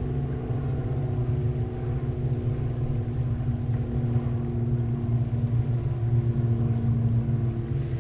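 An engine running steadily with a low hum whose pitch drifts slightly up and down.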